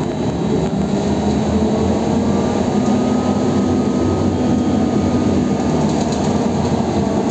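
Belkommunmash BKM 321 trolleybus under way, heard from inside: a steady electric motor whine over loud rumbling road noise.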